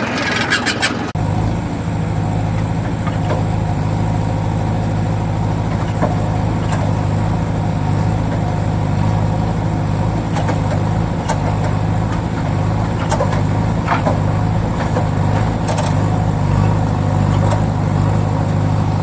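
Steady low engine drone running without change in pitch, with a few faint clicks over it, starting abruptly about a second in.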